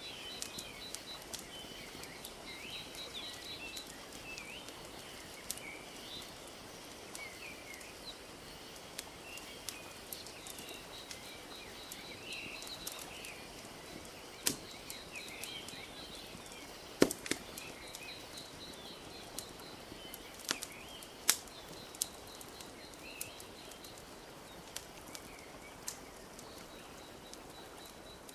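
Wood fire crackling with sharp pops, the loudest about halfway through and again a few seconds later, over a steady soft wash of gently lapping lake water. Small birds chirp and trill throughout.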